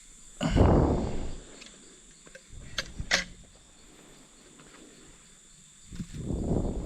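Steady high-pitched insect drone from the rainforest. Two loud muffled rustles close to the microphone, about half a second in and near the end, with a couple of sharp clicks around the three-second mark.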